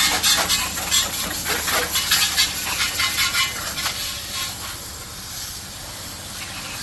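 Water hissing and spattering, with dense irregular clicks for about four seconds, then settling to a steadier, quieter hiss.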